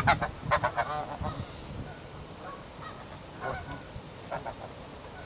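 Geese honking: a quick run of loud honks in the first second, then fainter scattered honks.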